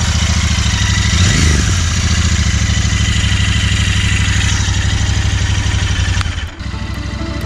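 Royal Enfield Interceptor 650's 648 cc parallel-twin engine idling, with a quick blip of the throttle about a second and a half in. The sound breaks off briefly near the end.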